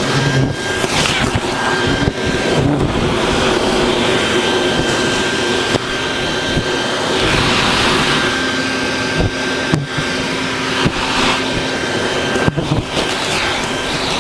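Vacuum running steadily with a constant whine, used to suck up bald-faced hornets, with a few short knocks and rustles from handling.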